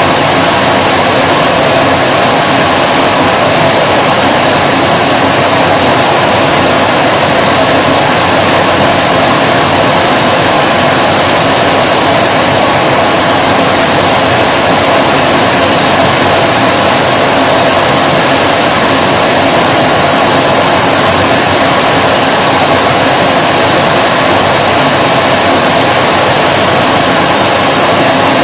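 Vacuum cleaner motor running continuously with a steady, loud whooshing hum of suction airflow.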